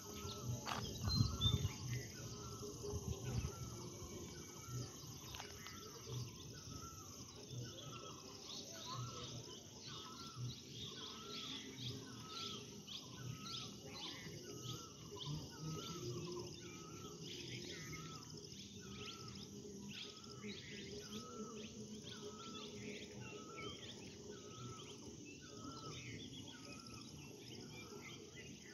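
Outdoor natural ambience: a bird calls one short note over and over, about one and a half times a second, over a steady high buzz of insects. Low rumbling on the microphone is loudest about a second in.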